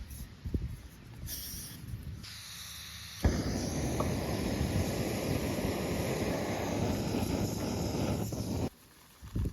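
Bacon and eggs sizzling in a pan over a campfire: a steady hiss that starts abruptly about three seconds in and cuts off suddenly near the end.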